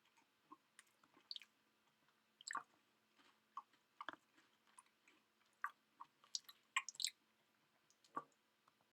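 Faint chewing of food close to the microphone: soft, irregular mouth clicks and small crunches, a little louder around two-thirds of the way through.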